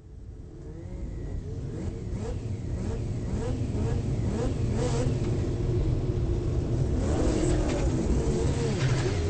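Mazda RX-7 race car's turbocharged 20B three-rotor rotary engine running, heard from inside the car, its pitch wavering up and down with several sharp cracks. The sound fades in over the first few seconds.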